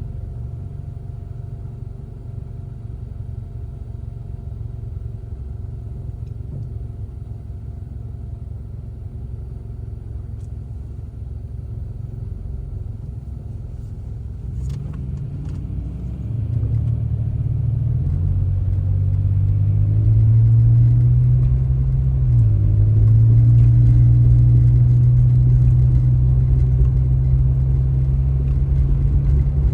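A car driving, its engine and road noise giving a steady low rumble. About sixteen seconds in it gets louder and the engine note rises as the car speeds up, then holds steady.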